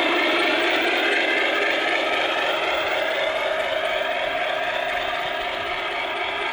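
O gauge model train, a 141R steam locomotive hauling coaches, running along the track with a steady mechanical rattle, getting slowly quieter.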